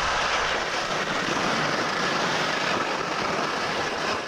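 Skis scraping steadily over icy, wind-blown snow, a continuous hiss of edges on hard ice.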